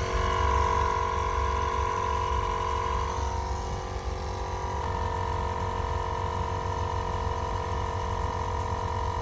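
Car cabin while driving: a steady low engine and road rumble under a steady whine from the engine and drivetrain. The whine shifts slightly about five seconds in.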